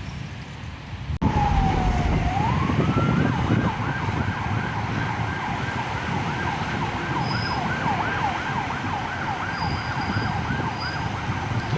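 Emergency vehicle siren over street traffic. It starts abruptly about a second in with a rising wail, then switches to a fast yelp warbling about two to three times a second. Near the end the yelp stops and a new rising wail begins.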